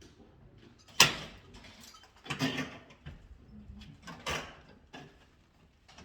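Work handling noises: one sharp clack about a second in, the loudest sound, then two short scraping or rustling bursts and a light click.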